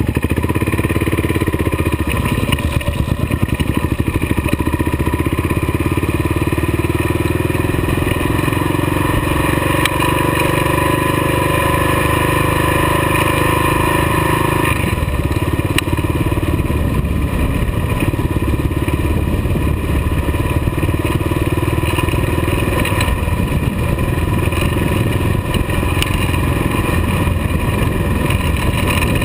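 Kawasaki KLR dual-sport motorcycle's single-cylinder four-stroke engine running under way, heard from the bike's own mount behind the windscreen. The engine note shifts about halfway through and a few times after that.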